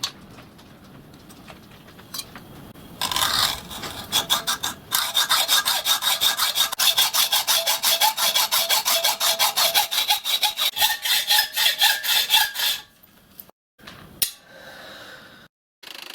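Rapid, rhythmic back-and-forth strokes of a metal-cutting hand tool working T-section steel, about five strokes a second with a ringing metallic edge. The strokes start a few seconds in and stop suddenly near the end.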